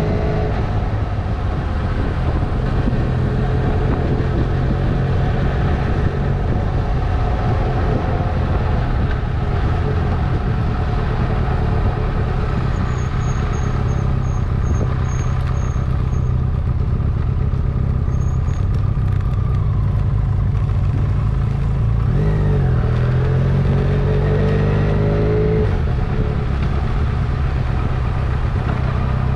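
Honda CMX 500 Rebel's parallel-twin engine running steadily while riding; about 22 seconds in the revs drop and then climb again. A short series of faint high chirps comes about halfway through.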